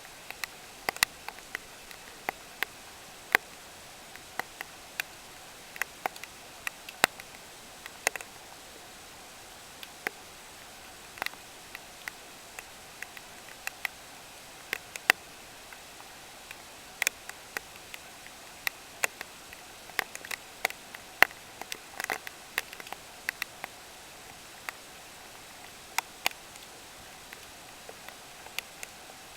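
Raindrops tapping irregularly on a hard surface during a typhoon, as scattered sharp ticks of uneven loudness, a few a second, over a steady hiss.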